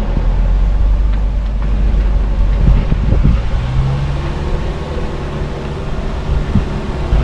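A car driving on a road: a constant low engine and tyre rumble, with a few short knocks from the road surface. From about halfway through, a steady engine hum joins it.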